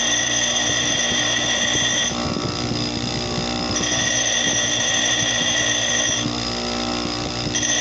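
A small electric power tool working the pin bore of a motorcycle piston, opening it out to take a larger 17 mm piston pin. It runs with a steady high whine that drops away twice, about two seconds in and again about six seconds in, leaving a rough scraping grind.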